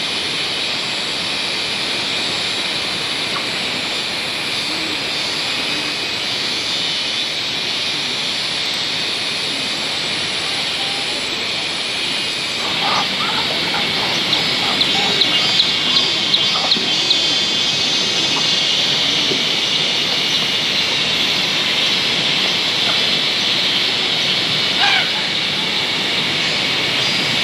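Steady rain falling, an even hiss throughout, with a short run of light ticks about halfway through.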